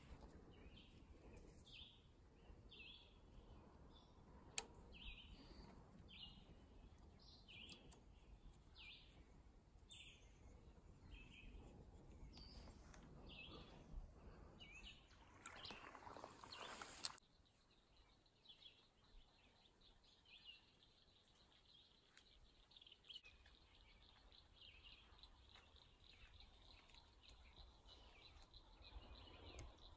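Faint birdsong of short chirps repeating about once a second, with one sharp click about four seconds in. Around fifteen seconds in comes a couple of seconds of rushing noise that stops abruptly, after which the chirps are fainter.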